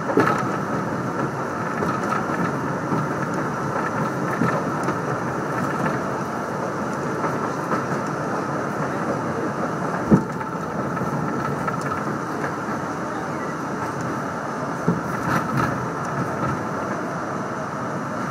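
Train running on the rails with a steady rumble and rail noise, broken by a few sharp knocks from the wheels and cars, the loudest about ten seconds in.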